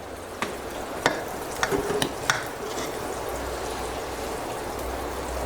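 Serving spoon stirring and knocking in a pot of chicken dum biryani: a few sharp clinks in the first two and a half seconds over a steady hiss.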